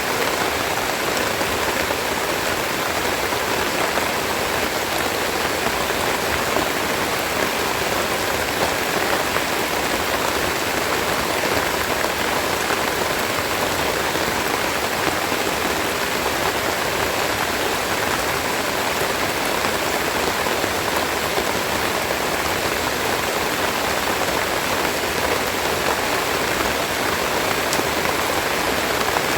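Steady heavy rain falling and pattering on leaves and surfaces, an even hiss with no let-up.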